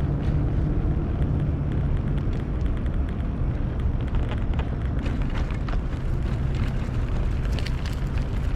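Wind rumbling on the microphone while riding a bicycle, with tyre noise and scattered small clicks and rattles.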